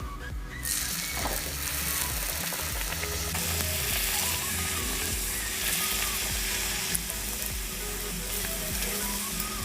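Maida dough cup, shaped over an oiled glass, deep-frying in hot oil: a steady sizzle that sets in about half a second in.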